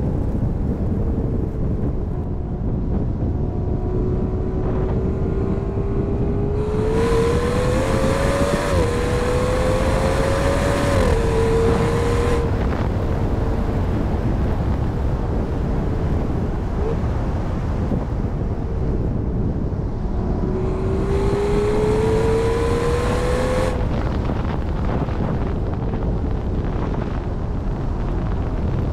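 Aston Martin V12 Speedster's V12 engine, breathing through a QuickSilver sports exhaust, pulling hard twice over steady road and wind rumble in the open cockpit. On the first pull the engine note climbs through a couple of upshifts. On the second, shorter pull it climbs and then drops away as the throttle is lifted.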